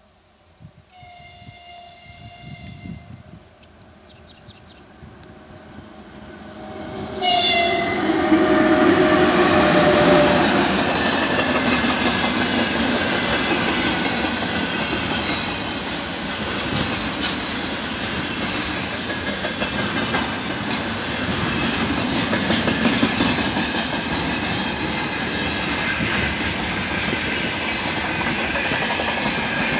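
A 2ES5K 'Ermak' electric locomotive sounds its horn twice: a high chord lasting about two seconds, then a short blast about seven seconds in as it reaches the camera. Its long freight train of container flats and refrigerator wagons then passes close by, running loud, with the wheels clacking over the rail joints.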